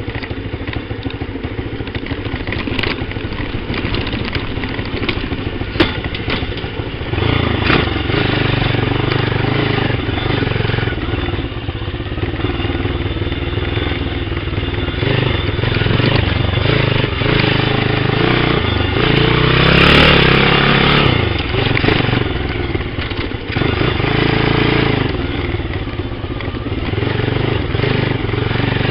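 Pit bike's small single-cylinder engine running as the bike is ridden round a dirt track, the engine note rising and falling with the throttle. It gets louder about seven seconds in and is loudest around twenty seconds, with knocks and rattles of the bike over the ground.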